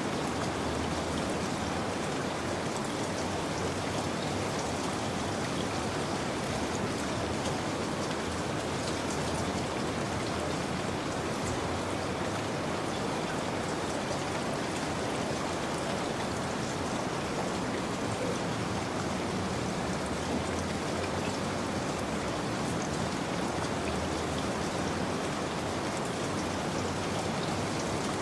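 Steady rain falling, an even hiss of drops on a surface with faint scattered ticks of single drops.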